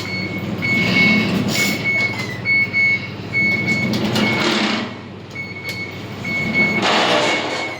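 Fujitec passenger lift beeping steadily, short high electronic beeps about twice a second, over the low hum of the car. Noisy rushing swells from the sliding doors come a few times as the doors close, described as loud doors.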